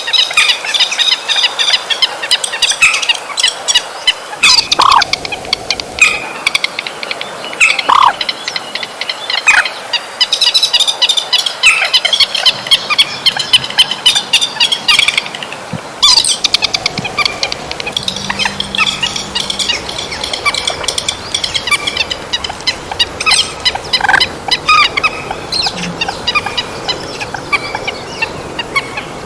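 Recorded calls of trích ré birds: many rapid, high-pitched chattering calls overlapping like a flock, played as a lure to call the flock in. There is an abrupt break about halfway through, after which the calling resumes.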